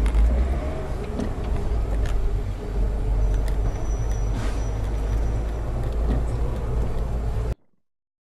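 Vehicle on the road: a steady low engine and road rumble with a few sharp clicks, cutting off suddenly about seven and a half seconds in.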